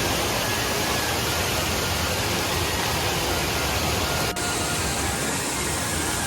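Waterfall rushing, a loud steady wash of water noise, with a momentary break about four seconds in.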